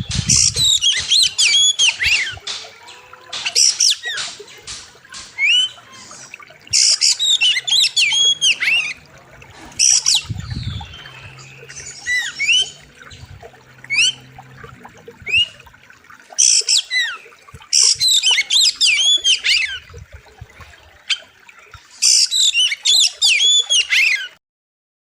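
Oriental magpie-robin (kacer) singing in loud bursts of fast, sweeping whistled notes mixed with harsh rattling chatter, the phrases repeated every few seconds. The sound stops suddenly near the end.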